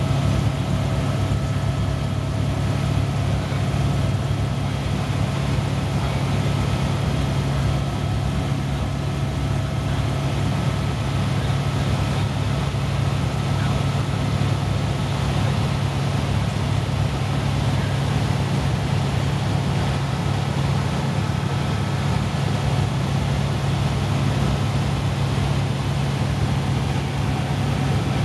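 Helicopter running steadily: a loud, constant low drone of rotor and engine with a fast, even pulsing and no change in pitch.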